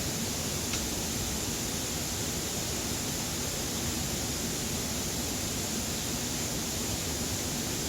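Steady, even rushing noise with no distinct events, with one faint tick under a second in.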